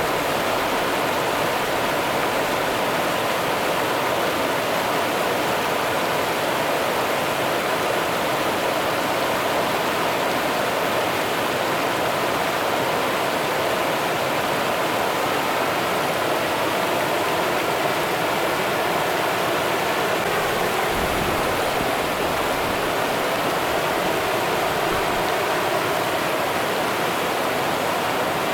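River water rushing and burbling over rocks in a steady, unbroken wash. A brief low rumble joins it about two-thirds of the way through.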